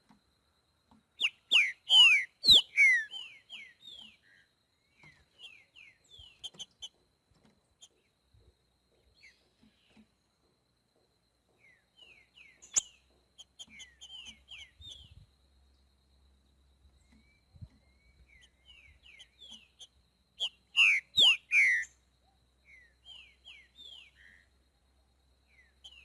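Green-winged saltator (trinca-ferro) singing the "boiadeiro" song: two loud phrases of quick downslurred whistles, about a second in and again near twenty seconds in, with softer scattered notes between.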